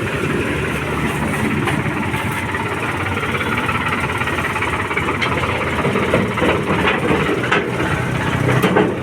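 Tractor diesel engine running steadily, with a few sharp clicks in the second half.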